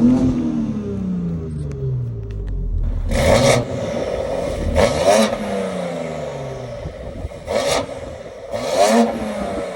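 BMW X3M's twin-turbo straight-six, on race downpipes with the particulate filter bypassed and in its mild efficiency mode, blipped four times from idle, each rev rising sharply and falling back. The exhaust sounds close to stock here, without the burble settings.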